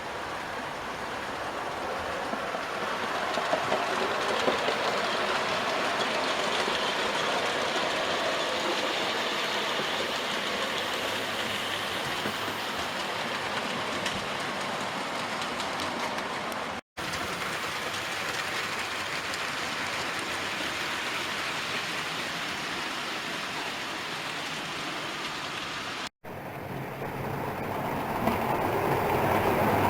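Model railway train running along the track: a steady rolling rumble of wheels and motor. The sound cuts out twice briefly, and over the last few seconds a louder train comes closer.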